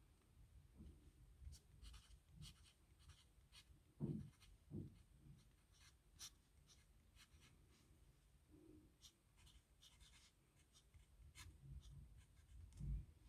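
Faint scratching of a pen writing on paper, in short separate strokes, with a few soft low thumps about four seconds in and again near the end.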